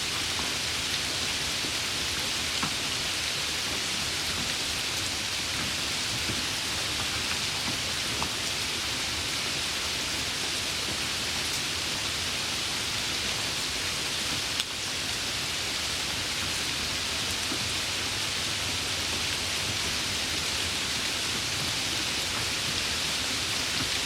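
Steady rain falling, an even hiss with a few faint drop ticks. There is a brief click about halfway through.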